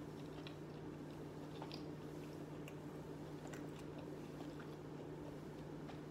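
Faint close-miked chewing of a mouthful of shrimp and rice, with soft wet mouth clicks scattered throughout, over a steady low hum.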